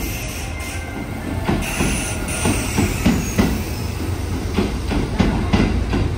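Hanshin electric train running along the track: a steady low rumble, with the wheels clacking in quick pairs over rail joints.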